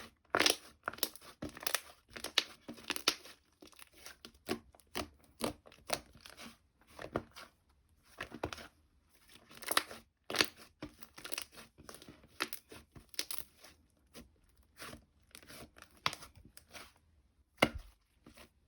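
Slime being squished, folded and stretched by hand, giving off a dense run of small pops, crackles and tearing sounds.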